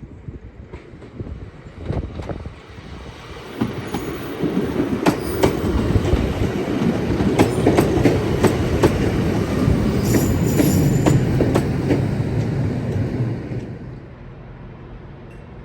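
A train passing by: rumble of wheels on the track with a run of sharp clicks as the wheels cross rail joints. It builds about four seconds in and falls away quickly near the end.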